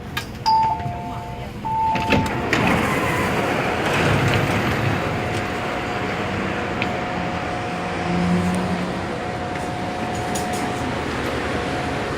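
A two-tone electronic chime sounds three notes, high-low-high, in the first two seconds. Then the running noise inside an MTR A-Train carriage grows louder and carries on steadily, with a faint steady whine.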